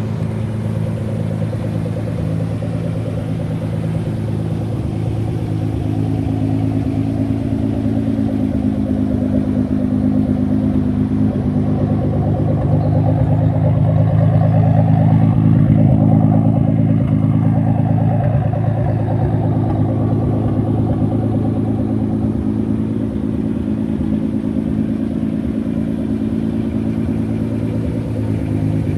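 Nissan 300ZX twin-turbo V6 idling steadily, swelling a little louder for a few seconds about halfway through.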